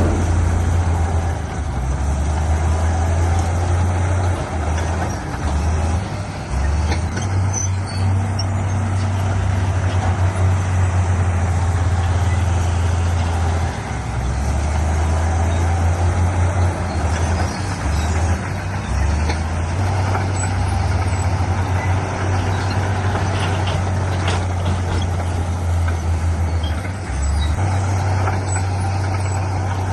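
Heavy diesel engine of earthmoving machinery running under load with a deep, steady drone, its pitch shifting now and then as the load changes.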